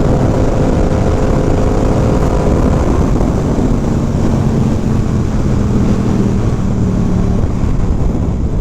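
Motorcycle engine running at speed, its note shifting about three seconds in, under a steady rush of wind over the microphone.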